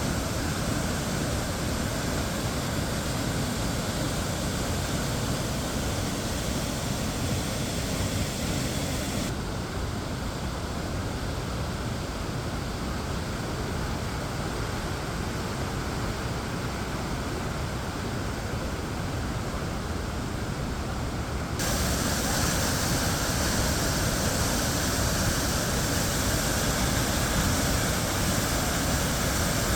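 Waterfall pouring: a steady rush of falling water. Its high hiss turns duller about nine seconds in and brightens again about twenty-two seconds in.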